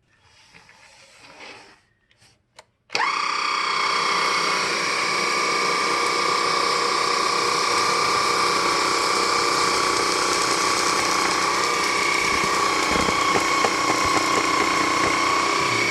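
Electroland Anak cordless stick vacuum cleaner switched on after a few clicks about three seconds in, then running steadily with a high whine from its motor and brush.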